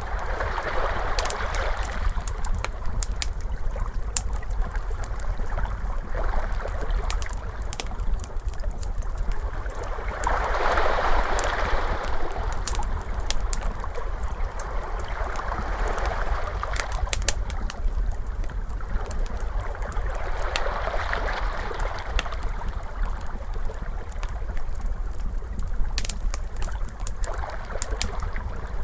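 Crackling fire with ocean waves washing in slow swells about every five seconds, over a steady low rumble.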